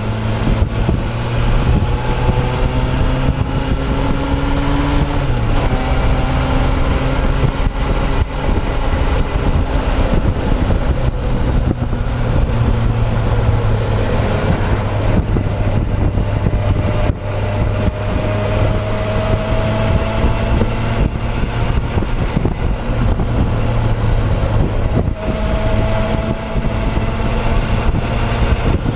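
Motorcycle engine running on the move, heard from a tank-mounted camera together with wind rush; the engine note rises slowly a few times and drops back.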